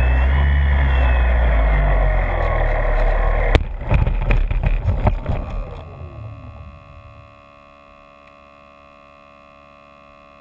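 The electric motor and propeller of an RC model DHC-2 Beaver run under wind rush, heard from inside the fuselage. A bit over three seconds in comes a run of sharp knocks as the model touches down on rough ground. The motor's pitch then falls away as it winds down, leaving a faint steady electronic tone.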